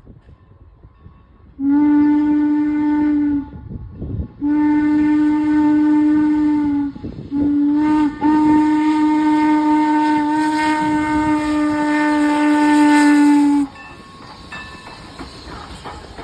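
Steam locomotive whistle of Strasburg Railroad No. 475, a 4-8-0 steam engine, blown in the long, long, short, long pattern of a grade-crossing signal: three long blasts with a short one between the second and third, the last held longest. After the whistle stops, the train's wheels rolling on the track are heard more quietly.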